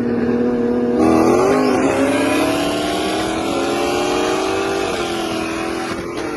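Car engine under hard acceleration: the note holds steady, then about a second in it jumps and climbs steadily for about four seconds before dropping back near the end.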